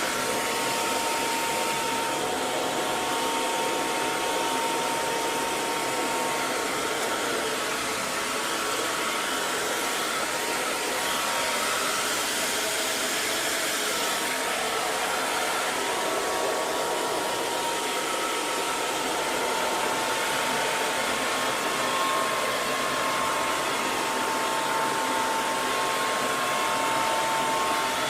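Hair dryer blowing steadily: an even rush of air with a steady motor whine.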